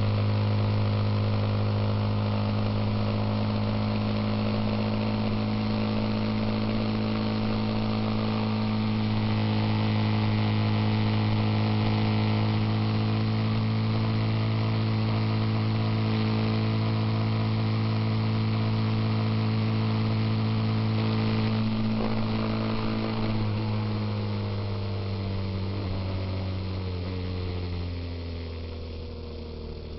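Suzuki Intruder motorcycle engine running steadily at cruising speed. About two-thirds of the way through, its pitch falls as the bike slows, and it drops again near the end.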